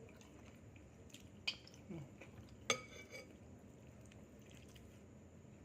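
Two sharp clinks of a utensil against a dish, a little over a second apart, the second ringing briefly. A short low falling sound comes between them, over quiet table noise.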